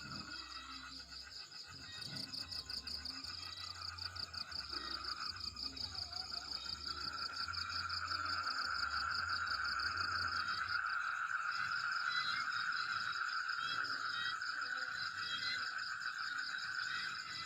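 Chorus of frogs and insects trilling continuously: a fast-pulsing high trill and a steadier lower trill that grows louder about seven seconds in, with small chirps in the second half.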